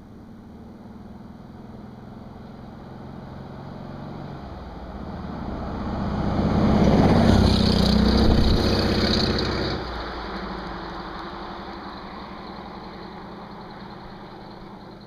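Jeep CJ7's AMC 258 straight-six running through a Magnaflow dual exhaust as it drives by. It grows louder, is loudest about seven to nine seconds in, drops off sharply just after, then fades away.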